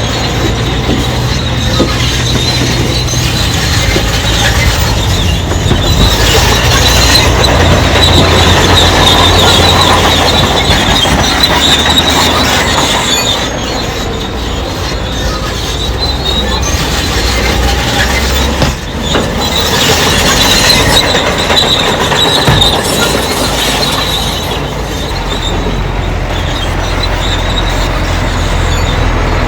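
Bulldozer's heavy diesel engine running under a high metallic squealing and clanking from its steel crawler tracks. The level dips briefly about two-thirds of the way in.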